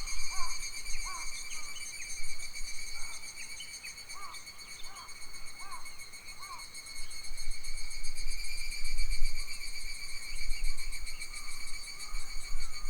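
A steady, shrill pulsing drone of summer forest insects runs throughout, while a bird repeats short arched call notes about every half second through the first half. Wind rumbles on the microphone, gusting harder in the second half.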